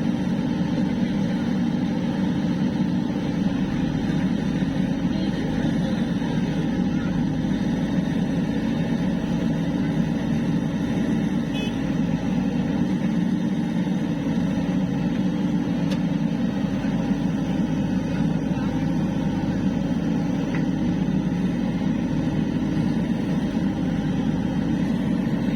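Heavy diesel engine running steadily at an even speed, a continuous low drone with no revving.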